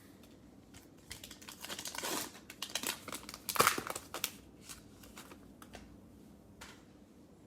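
Basketball card pack wrapper being torn open and crinkled, a flurry of crackling and tearing that is loudest about three and a half seconds in, then a few light clicks.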